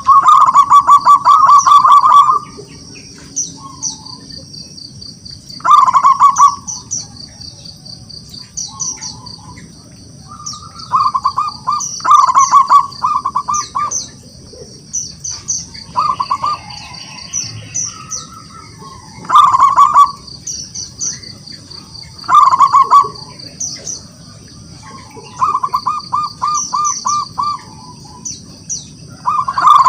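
Zebra dove (perkutut) cooing: short loud bursts of rapid, stuttering notes every few seconds. Thin, high chirping of other small birds runs underneath.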